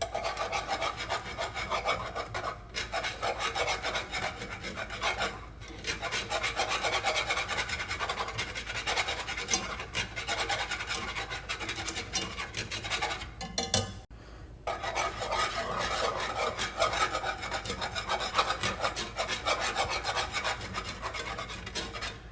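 A whisk scraping rapidly around the bottom of a pan of milk gravy as it thickens: a steady fast scratching, broken a few times by short pauses.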